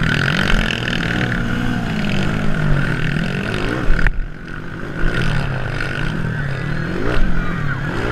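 Several motocross bikes racing, their engines revving up and falling back over and over as the riders work the throttle. A sharp knock about four seconds in.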